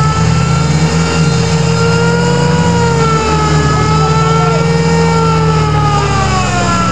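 Suzuki Samurai engine running at steady high revs, its pitch wavering slightly, while it drives a PTO winch that pulls the vehicle through mud.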